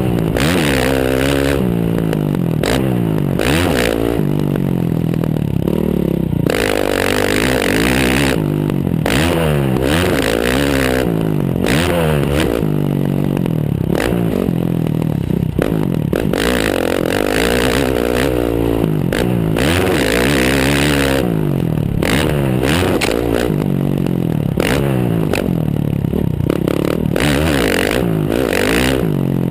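Motocross bike's single-cylinder engine revving hard, its pitch climbing and dropping back many times as the rider accelerates, shifts and rolls off around the track. Heard close up from the rear fender, with clattering and scraping mixed in.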